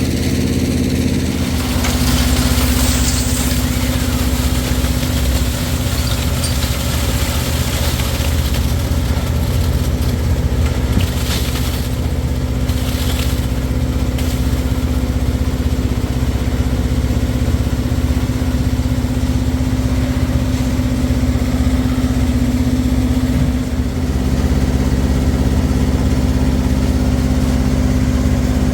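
An engine running steadily at an even speed, with a rough noise layered over it from about two seconds in until about halfway through.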